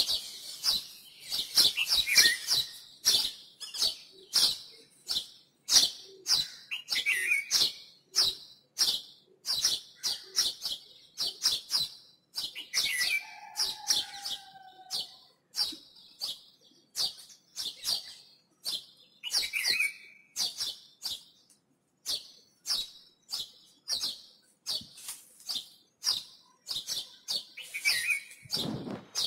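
Small birds chirping in a long run of short, high chirps, one or two a second, with a few lower calls mixed in and one longer falling note about halfway through.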